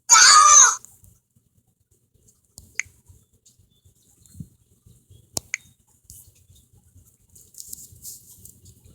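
A short, loud burst of voice lasting under a second, then mostly quiet with a few faint scattered clicks, one sharper click about halfway through.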